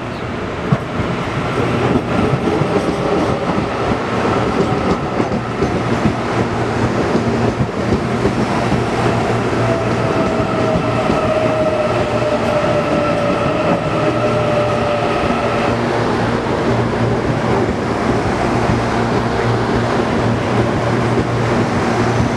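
CPTM electric commuter train running along the tracks: a steady rumble of wheels on rail, with a whine that falls slightly in pitch from about nine to sixteen seconds in.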